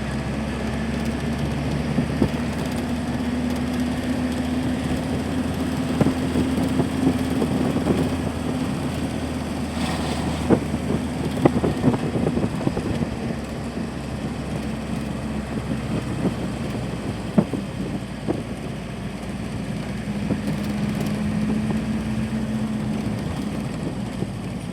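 A vehicle running steadily: a low engine hum over road noise, with scattered knocks and rattles.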